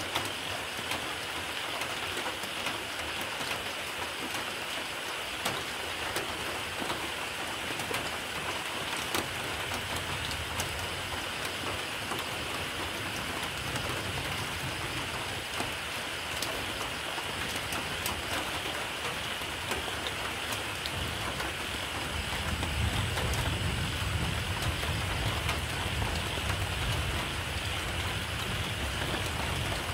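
Steady rain falling, an even hiss with many scattered drop ticks. A low rumble swells in about two-thirds of the way through and carries on.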